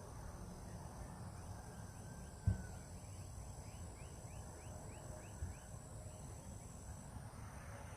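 Outdoor marsh ambience: a steady high insect trilling, and a run of short rising bird chirps about two to three a second. Under them is a low rumble of wind on the microphone, with one thump about two and a half seconds in.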